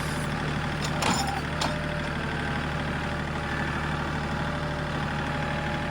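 John Deere 3 series compact tractor's diesel engine running steadily while working the grapple, with two short sharp cracks or clunks about a second in.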